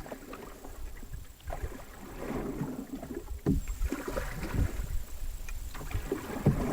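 Canoe being paddled: water swishes with the paddle strokes, with a few sharp knocks, over a low rumble.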